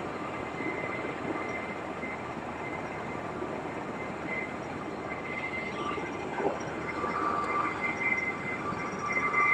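US Marine Corps helicopters running, a steady rumble of engine and rotor noise with a thin high whine that grows stronger in the second half.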